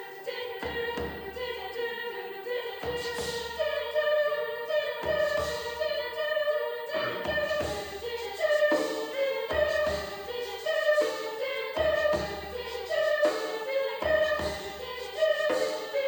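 High school choir singing in parts, with sharp rhythmic accents about once a second.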